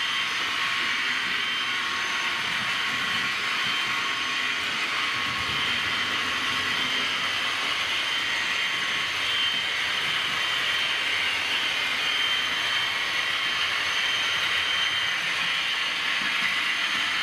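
Model V200 diesel locomotive running with a train on a model railway layout: a steady rolling, mechanical running sound with a steady high whine.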